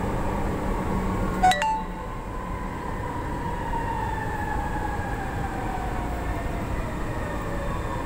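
Inside an MRT-3 light-rail car: steady running rumble with the drive's whine falling slowly in pitch as the train slows into a station. A single sharp clink with a brief ring comes about a second and a half in.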